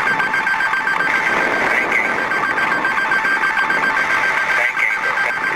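Cockpit warning alarm, heard through a cockpit voice recorder: a rapidly pulsing tone that sounds continuously over steady cockpit noise.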